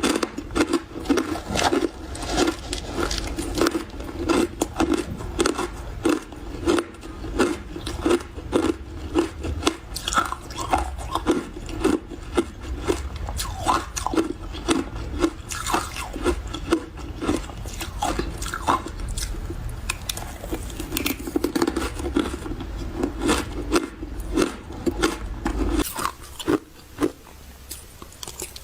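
Close-up crunching and chewing of mouthfuls of refrozen powdery freezer ice, a rapid run of soft crunches that thins out near the end.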